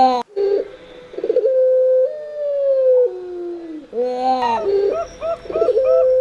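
Puter and perkutut (zebra dove) cooing: long drawn-out coos that sink and step down in pitch, then a quick run of short repeated coo notes near the end. A sharp click sounds just after the start.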